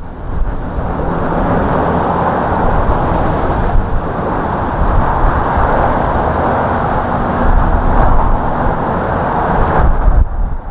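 Airplane engines on landing approach: a steady rushing drone that swells a little mid-way, with wind rumbling on the microphone.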